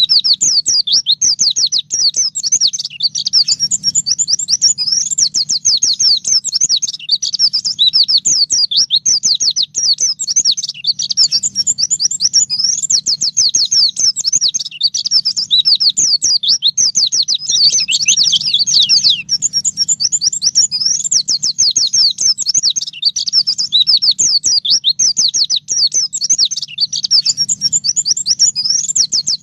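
Pleci (white-eye) singing a long, unbroken run of fast, high twittering notes, the 'ngalas nembak' style of song.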